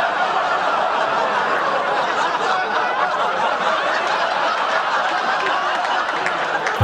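Studio audience laughing, a long sustained wave of laughter after a punchline.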